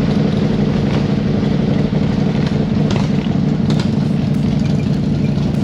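Motorcycle engine running at a steady, unchanging speed, loud and close.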